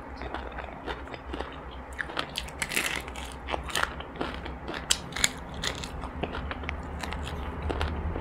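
Close-up chewing of crispy breaded fried chicken: irregular crunches and wet mouth clicks, over a low steady hum.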